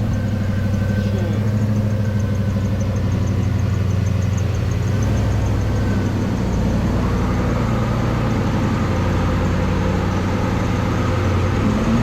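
A car engine idling steadily, a low even hum, with a faint quick ticking above it.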